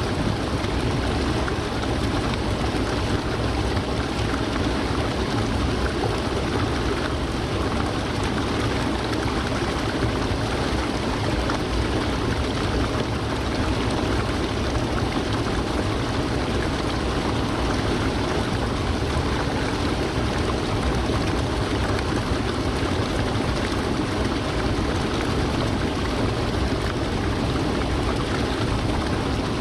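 Haruru Falls waterfall: water pouring and rushing in a steady, unbroken roar of white water.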